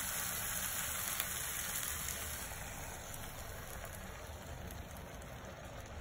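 Egg mixture sizzling as it is poured onto hot sautéed onions and tomatoes on an oiled tawa: a steady frying hiss with faint crackles that slowly quietens.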